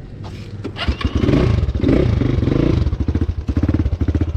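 Motorcycle engine starting and revving about a second in, then settling into an even idle pulse of about eight to nine beats a second.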